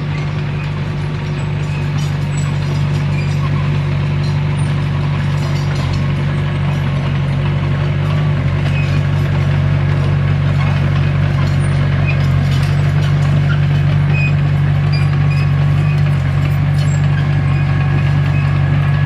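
Diesel engine of a Komatsu D21P crawler bulldozer running steadily, a deep even drone that grows slightly louder over the first several seconds, with faint scattered clicks above it.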